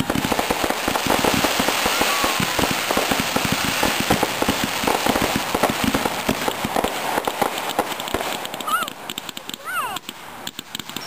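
Consumer 1.4 aerial fireworks going off overhead: a dense, rapid crackling and popping of bursting shells that thins out over the last few seconds.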